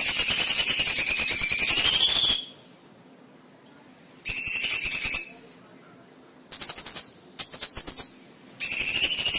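Cucak cungkok bird singing loud, high, ringing whistled phrases with a fast wavering pitch. A long phrase breaks off about two seconds in. After pauses come three short phrases, and a long phrase starts again near the end.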